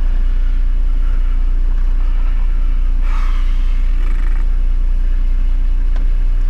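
Four-wheel-drive engine idling steadily, with a deep, constant rumble.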